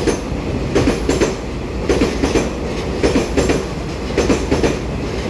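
TRA EMU3000 electric multiple unit running past along the platform: its wheels clack in pairs over a rail joint about once a second, over a steady low rumble.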